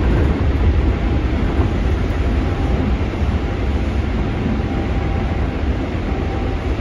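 Steady running noise inside a Keikyu 600 series electric train at speed in a tunnel: a continuous rumble of wheels on rail with a faint steady hum above it.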